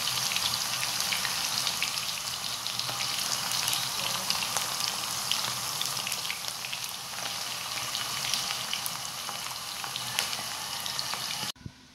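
Thin potato slices frying in hot oil in a frying pan: a steady sizzle thick with small crackles and pops, which cuts off abruptly near the end.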